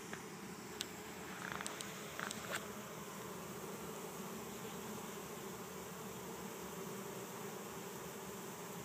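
Steady hum of a honeybee swarm buzzing as the bees walk into a hive box, some fanning their wings at the entrance to send out pheromone. A few light clicks sound about a second in.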